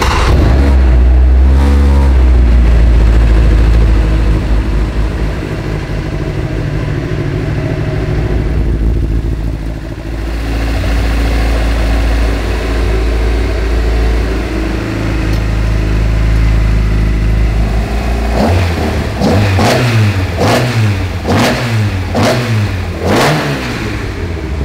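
Supercar Lites race car engine fired up from the cockpit switch panel and running with a steady loud drone. In the last several seconds it is blipped, revving up and dropping back about six times in quick succession.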